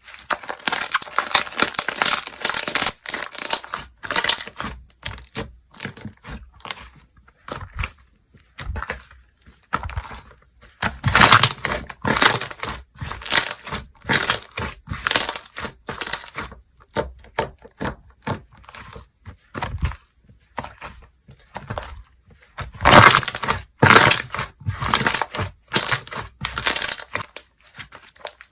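Slime being squished, stretched and pressed by hand, giving dense clicking and crackling in bouts separated by short pauses.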